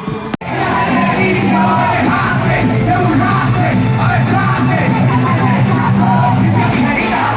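Live reggaeton concert music played loud over a PA, with vocals and many voices yelling and singing along. The sound cuts out for an instant about half a second in, then comes back.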